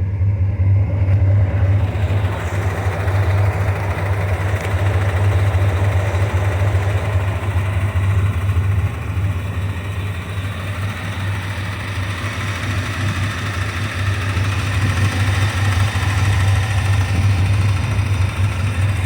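1984 Corvette's 5.7-litre V8 idling steadily.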